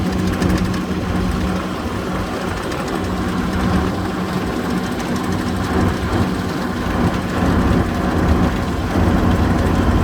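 Diamond T half-track's engine running steadily as the vehicle drives along, heard from on board, with a constant low hum and mechanical rattle.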